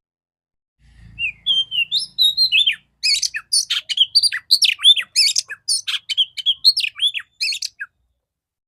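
Female Oriental magpie-robin (kacer) singing a rapid, clear run of chirps and down-slurred whistles for about seven seconds, starting about a second in and stopping near the end.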